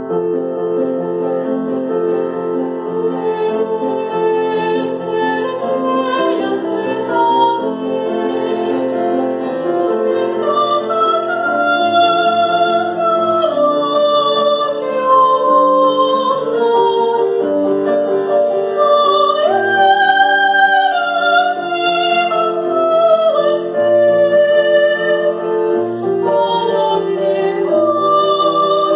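A woman singing in classical operatic style with piano accompaniment, sustaining long notes with a wide vibrato.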